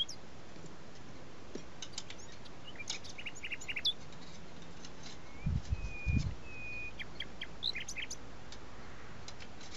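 Small birds chirping: scattered short high chirps, then two or three held whistled notes. A few dull low thumps come about five and a half to six seconds in.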